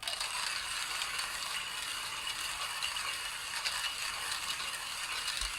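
1Zpresso Q2 manual burr grinder being hand-cranked steadily, medium-roast coffee beans crunching between the burrs in an even, gritty rattle.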